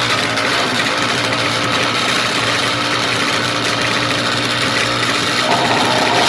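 Yamaha MX King motorcycle's single-cylinder engine, bored out to 200cc and running through an HO2 racing exhaust, running steadily at idle; its note changes about five and a half seconds in.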